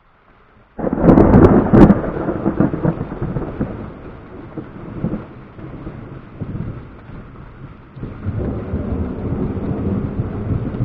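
Thunderclap from nearby lightning: a sudden sharp crack about a second in, then low rumbling that fades and builds again near the end.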